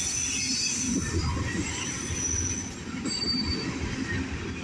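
Railroad tank cars of a freight train rolling past: a steady rumble of wheels on the rails with thin, high-pitched wheel squeal over it, the squeal fading about two-thirds of the way through.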